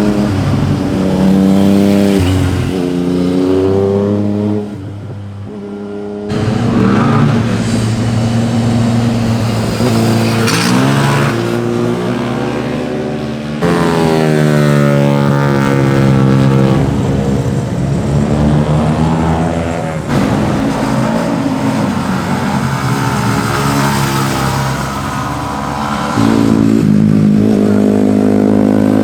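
Sport motorcycle engines revving and passing one after another, their pitch rising under acceleration and dropping through gear changes. The sound switches abruptly from one bike to the next every six or seven seconds.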